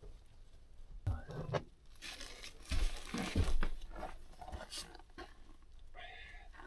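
Knocks and rustling from handling parts while fitting a small stove inside a vehicle. There are a few knocks about a second in, then a stretch of rustling with two heavier knocks in the middle.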